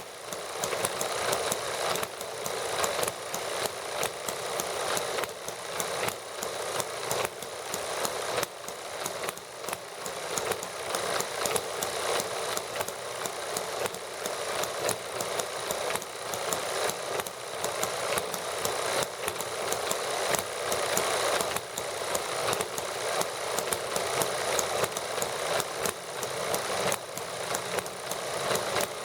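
Several small model gasoline engines running together at a steady idle, a fast, even clatter of firing strokes with no pause or change.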